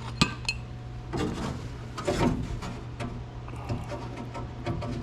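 A sharp metallic click, then irregular scrapes, rubs and knocks of hand tools and hardware being worked inside a car door, over a steady low hum.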